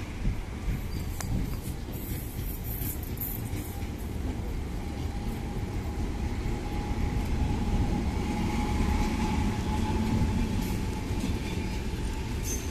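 Indian Railways passenger coaches rolling past at close range: a steady rumble of wheels on rails that swells through the middle. A faint high whine runs under it from about five seconds in.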